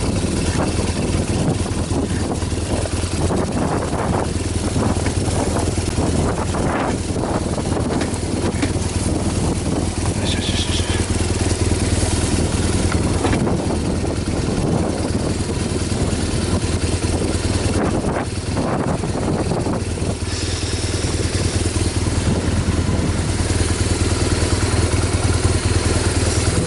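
Strong wind buffeting the microphone: a steady, heavy rumble with gusty hiss over it.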